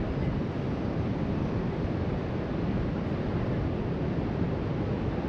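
Steady wash of ocean waves breaking along the shore, mixed with wind noise on the microphone.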